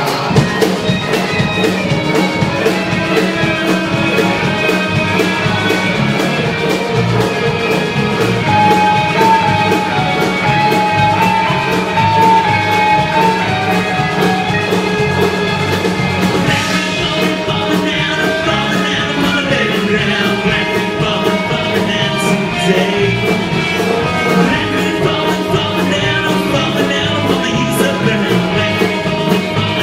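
A band playing live, with a steady beat, held instrumental notes and singing.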